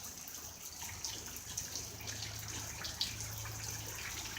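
Rain mixed with small hail falling: a steady watery patter with a few scattered sharper ticks.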